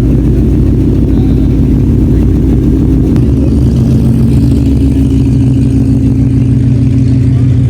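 Car engine running steadily, a loud low drone whose deepest rumble drops away about three seconds in.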